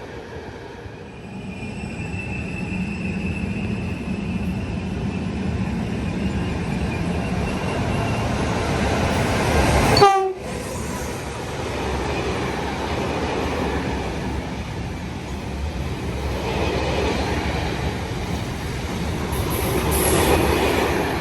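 A train passing at speed: a steady rush of rail and wheel noise builds to a sudden loud blast about halfway through, followed by a brief dip, then carries on and swells again near the end.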